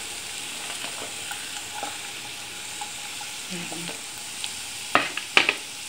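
Grated coconut masala sizzling in hot coconut oil in a pan over a low flame as it is pushed in from a plate by hand, with a steady hiss. Two sharp knocks come close together about five seconds in.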